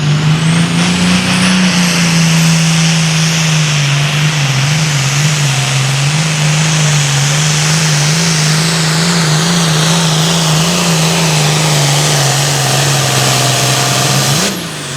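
A Super Farm class pulling tractor's turbocharged diesel engine held at full throttle through a pull, loud and steady, with a high turbo whine over it. About fourteen and a half seconds in the engine note drops suddenly as the throttle is lifted, and the turbo whine falls away as it spools down.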